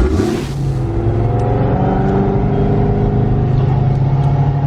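A V8 car engine running steadily at moderate revs, its deep tone holding nearly even and creeping up slightly in pitch, after a brief rush of noise right at the start.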